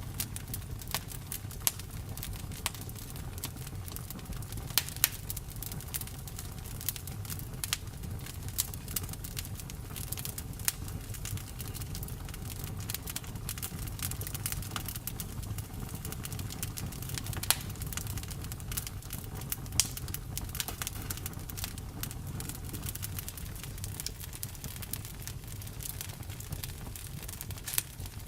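Campfire burning, with irregular sharp crackles and pops over a steady low rumble of the flames. A few louder pops stand out, about five seconds in and again near seventeen and twenty seconds.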